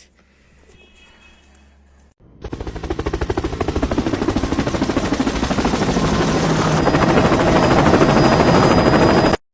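A loud, fast rattle of rapid pulses that starts about two seconds in, grows steadily louder and cuts off suddenly near the end.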